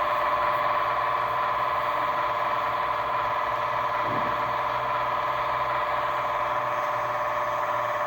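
Piko H0-scale model of an EP08 electric locomotive running on a layout, a steady whine made of two held tones.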